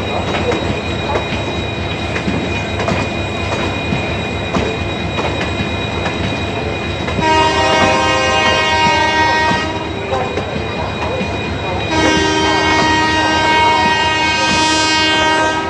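Passenger coaches of an express train running through a station without stopping: a steady rush of wheels on rail with rapid clickety-clack over the rail joints. A train horn sounds twice over it, a blast of about two and a half seconds some seven seconds in and a longer one from about twelve seconds in.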